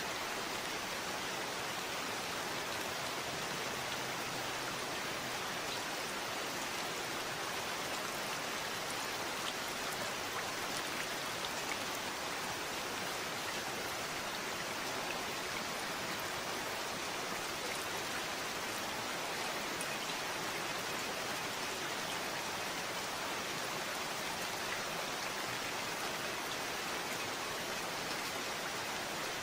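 Steady, constant rain falling, an even hiss with faint scattered drop ticks.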